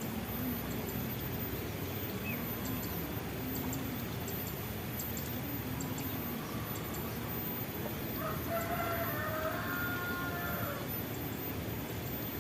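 A rooster crows once about eight seconds in, a single drawn-out call lasting roughly two and a half seconds. It sounds over a steady hiss of outdoor background noise.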